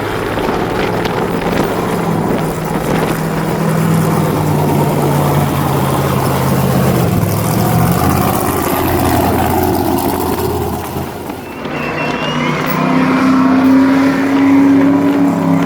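A vehicle engine running hard, its pitch rising and falling with the throttle. It eases off briefly about eleven seconds in, then revs back up and holds a higher pitch.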